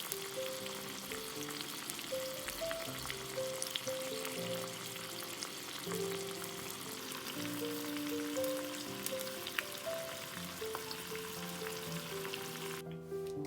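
Hot oil sizzling and crackling as food fries in it, with a light melody playing underneath; the sizzling cuts off abruptly near the end.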